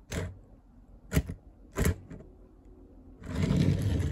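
Three sharp clicks or knocks, a little under a second apart, then about a second of scraping noise near the end.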